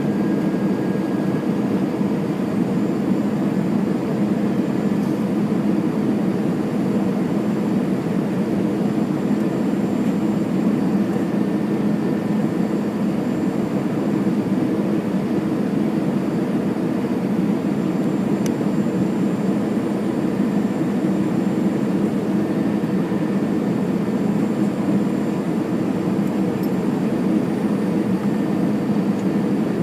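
Steady cabin drone inside an Airbus A320, the engines and airflow heard from a window seat near the front. It is an even, low roar that does not change.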